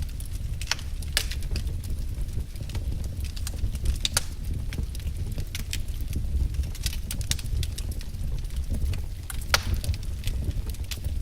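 Wood fire crackling: irregular sharp pops and snaps of burning firewood over a steady low rumble of the flames, with one louder pop near the end.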